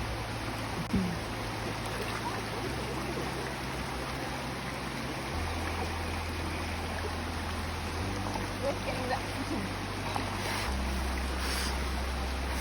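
Rainforest creek water running with a steady, continuous rush.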